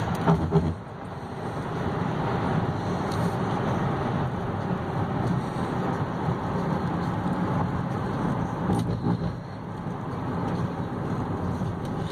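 2014 Chevy Cruze diesel's 2.0-litre turbo-diesel four running, a steady rumble, with brief dips in level about a second in and near nine seconds.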